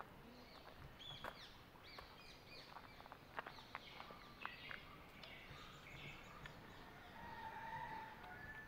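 Several birds chirping: many short, quick falling chirps, overlapping, with a longer call near the end, over a faint steady hiss.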